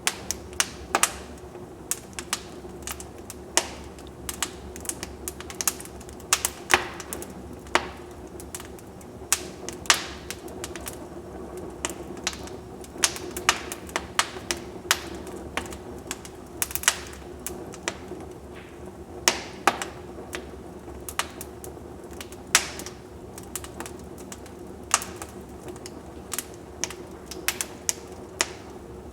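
Wood fire in a fireplace crackling, with irregular sharp pops and snaps over a low steady hiss of the flames.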